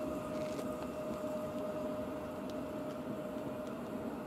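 EU07 electric locomotive with a passenger train drawing into the station: a steady whine over a low rumble.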